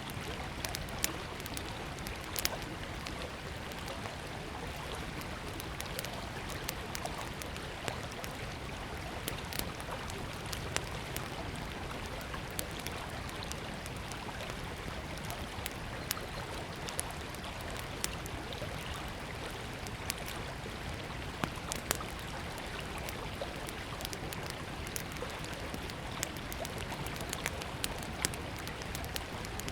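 Steady rush of a flowing river, with frequent sharp, irregular crackles and pops from a small wood fire burning close by.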